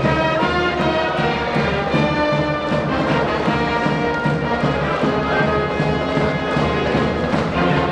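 Brass band playing a cheering tune with a steady drum beat.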